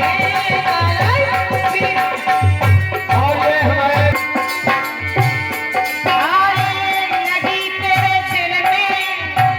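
Indian folk music: a steady hand-drum beat under a held drone tone and a melody line that slides in pitch.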